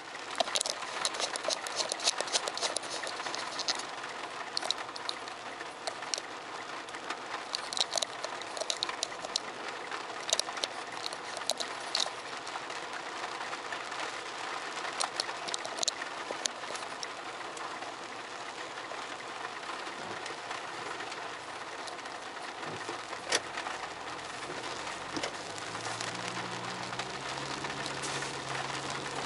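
Steady rain, an even hiss with many sharp drop hits scattered through it; a low steady tone joins near the end.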